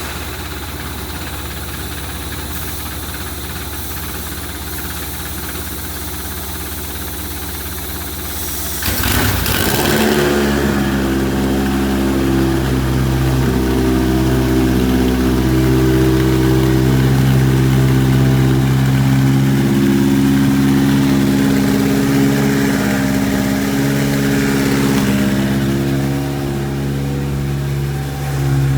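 Toyota 2AZ 2.4-litre inline-four engine starting on a test stand about nine seconds in, then idling steadily; near the end the sound dips briefly and comes back up. This is the engine's first run after installation on the stand, a check of whether it is sound.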